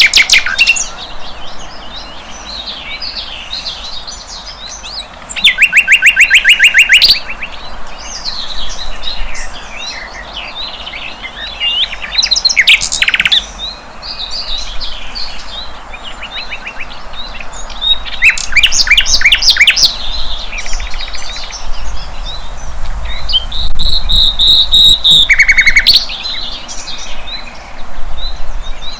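Sikatan londo (a flycatcher) singing: a high, varied twittering song broken several times by loud, fast rattling trills, the longest lasting nearly two seconds.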